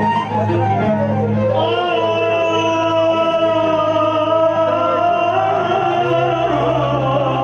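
Live Arabic wedding music: a male singer holds one long, slightly wavering note over a steady instrumental drone.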